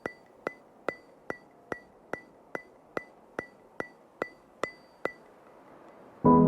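Steady ticking: thirteen sharp clicks, each with a brief high ring, about two and a half a second, stopping about five seconds in. Soft piano music begins near the end.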